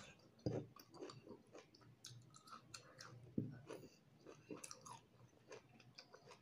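A person chewing food close to the microphone: soft wet clicks and smacks of the mouth, with two louder low thumps, about half a second in and about three and a half seconds in.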